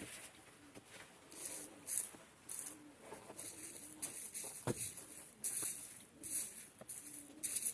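Pigeons cooing, with short low coos repeated about once a second. Louder, irregular rustling bursts come over them.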